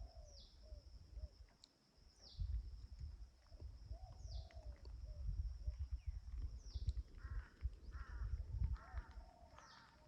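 Wild birds calling over farmland. A high call falling in pitch repeats about every two seconds, five times in all. A second bird gives four short calls from about seven seconds in. A steady high whine and a low rumble run underneath.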